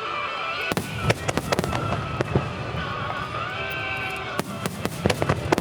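Aerial firework shells bursting, with quick volleys of sharp bangs and crackles about a second in and again near the end. Music plays underneath.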